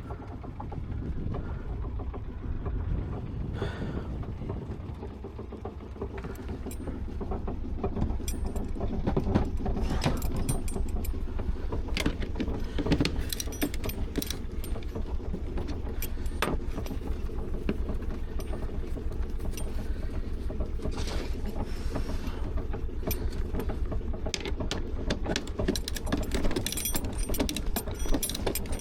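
Sailing yacht under way: a steady low rushing noise of wind and water with scattered clicks and rattles from the deck gear and rigging.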